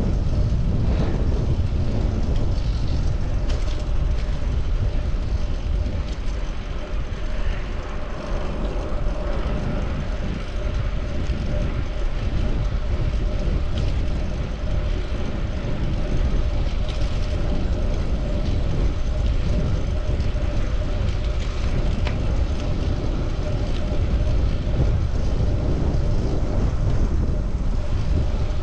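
Steady wind rush and rumble on the microphone of a moving bicycle, mixed with the noise of passing city traffic.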